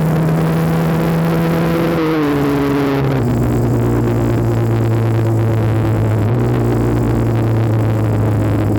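1984 Honda CR80R's 80cc single-cylinder two-stroke engine running under riding, its pitch dropping as the revs fall about two to three seconds in, then holding steady.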